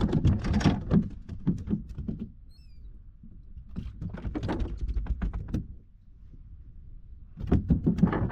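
A freshly caught speckled trout flopping in hand and against a plastic kayak, giving rapid slaps and knocks in three bouts.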